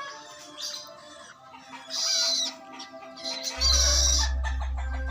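Young long-tailed shrike (cendet) practising its song: thin chattering notes broken by two loud, harsh, scratchy calls, about two seconds in and again near three and a half seconds. A low steady hum comes in just before the second call.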